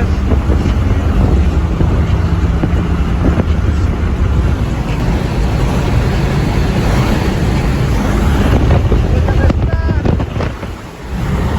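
A car running hard at speed, its engine heavy and low under loud wind buffeting on the microphone. The sound briefly drops off about ten seconds in, then comes back.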